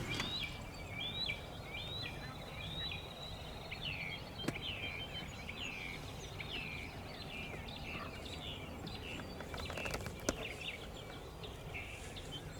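A small songbird calling over and over, short falling chirps at about two a second, over faint outdoor background noise.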